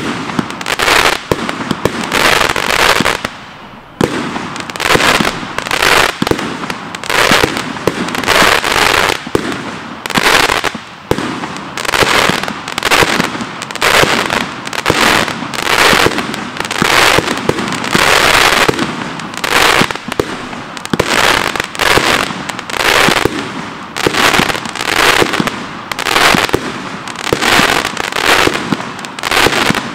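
Lynch Imports 'Exploding Galaxies' 100-shot consumer fireworks cake firing in a steady string, roughly one shot a second. Each tube's launch is followed by its burst of stars, some of them crackling.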